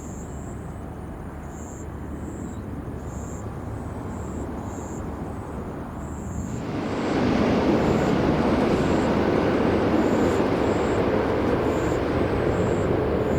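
Jet airliner's engines rumbling, then growing much louder and fuller about six and a half seconds in, holding loud to the end.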